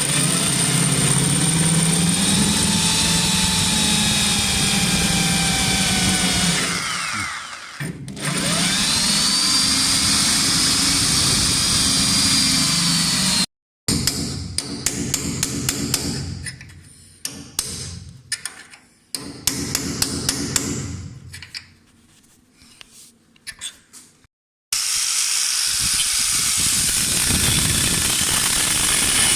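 A power tool running with a whine that rises and falls in pitch, then, after a cut, a run of sharp hammer blows, then the power tool running again.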